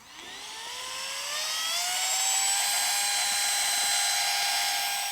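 Flextail Zero battery mini pump switching on and running, a small electric motor whine that rises in pitch over about two seconds as it spins up, then holds steady while inflating a sleeping mat.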